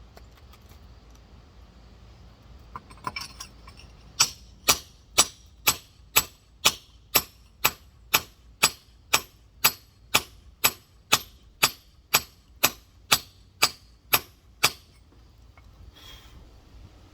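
Rock hammer tapping a large geode in a steady rhythm: about twenty sharp strikes at roughly two a second, after a little light clatter, stopping a couple of seconds before the end.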